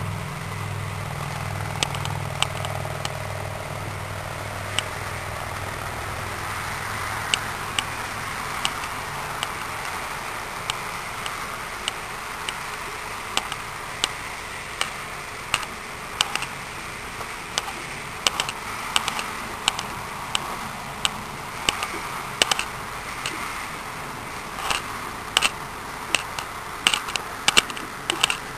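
A vehicle engine running, fading away over the first eight seconds or so. It leaves a steady hiss with scattered sharp clicks that come more often near the end.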